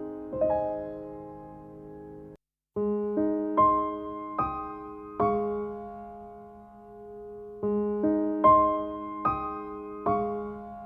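Slow, calm piano music: single notes and chords struck and left to ring out. There is a brief break of silence about two and a half seconds in.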